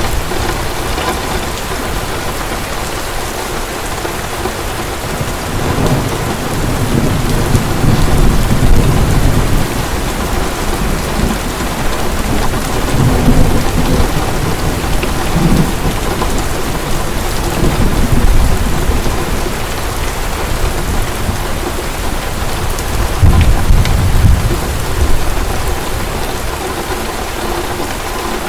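Heavy steady rain pouring down, with rolls of low thunder rumbling several times, the strongest about a third of the way in and again near the end.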